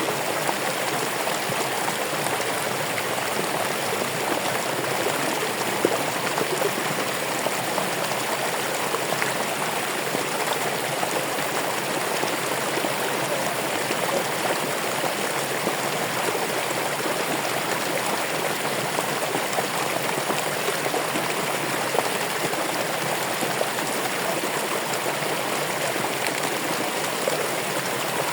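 Running water flowing steadily, an even, unbroken rush and splash.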